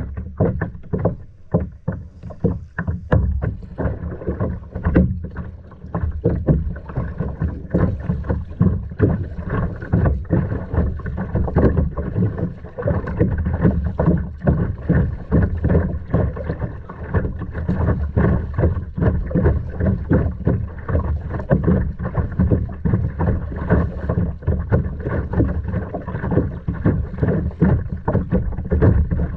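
Water splashing and sloshing close around a kayak under way, in a dense, irregular patter, over a steady low rumble of wind on the microphone.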